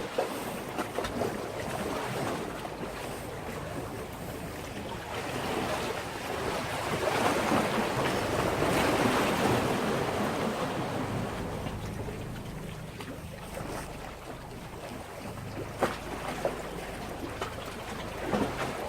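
Sea waves washing against a breakwater: the surf swells up to a peak about halfway through and then recedes. A couple of sharp clicks come near the end.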